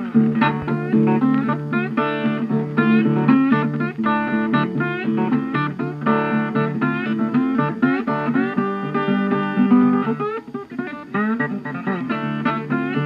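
Guitar music: a run of plucked guitar notes, some of them bending in pitch.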